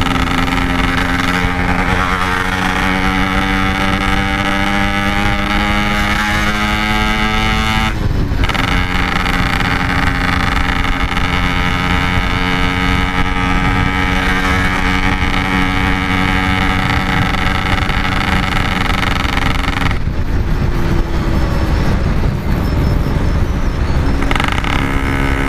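Yamaha RX-King single-cylinder two-stroke engine running hard under way, its pitch climbing slowly, with a brief break and drop in pitch about a third of the way in, like an upshift. Near the end it goes softer for a few seconds, as if the throttle is eased, then picks up again.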